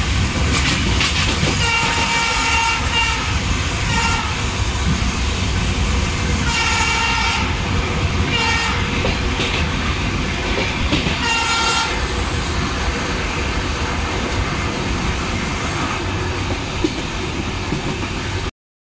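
Rumble and clickety-clack of an express train running at speed, heard from inside a coach at an open window. A train horn sounds several times in the first twelve seconds, mostly short blasts, with longer ones about seven and eleven seconds in.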